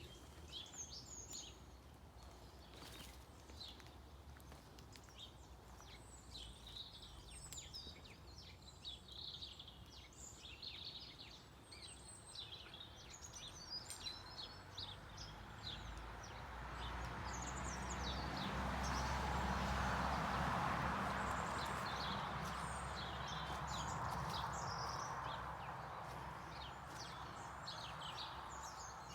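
Winter birdsong from a mix of small woodland birds — tits, finches, blackbirds and robins — singing and calling with many short high phrases. In the second half a broad rushing noise with a low rumble swells up, peaks and slowly fades under the birds.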